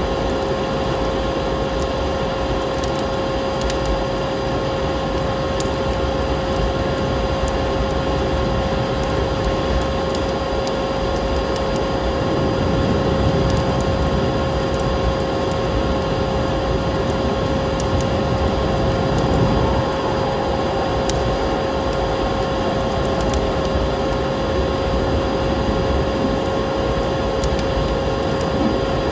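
Layered sleep-ambience track: a steady vacuum-cleaner drone with a constant hum, under wood-fire crackling with scattered sharp pops.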